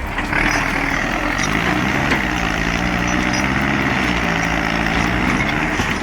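Tractor engine running hard under load, its note sagging and picking up again a couple of times over a steady hiss.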